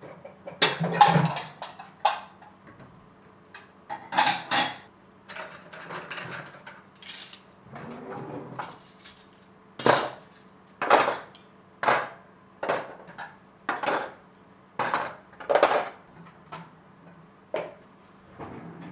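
Dishes and cutlery clinking and clattering as a dishwasher is loaded: a dozen or so separate sharp knocks and clinks at irregular intervals.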